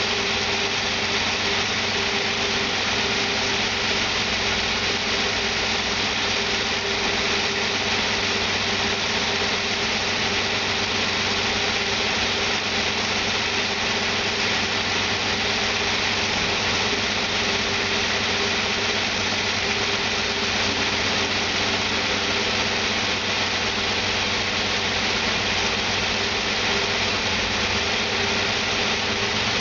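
1993 Toyota T100 engine idling steadily on test, running evenly with no change in speed; it is an engine that tested good.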